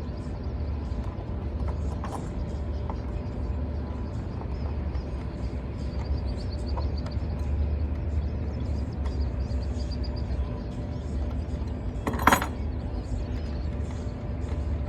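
Steady low rumble with faint scattered ticks, and one sharp clink about twelve seconds in.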